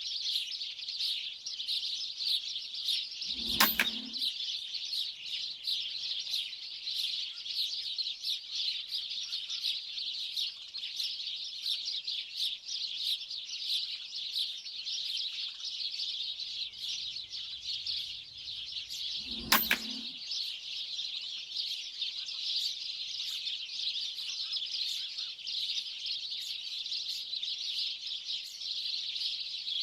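A large flock of small birds chattering continuously, broken twice by a sharp air rifle shot firing 4.5 mm slugs, the first a few seconds in and the second about sixteen seconds later.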